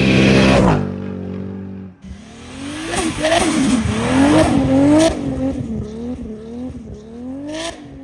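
Turbocharged Toyota Supra MK4 engine held at high revs, dropping in pitch about a second in. After a sudden cut, the engine revs up and down again and again, with a few sharp cracks.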